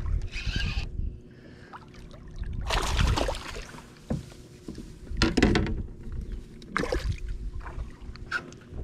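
Water splashing and sloshing around a kayak in several separate swells, each a second or less, with a few knocks between them.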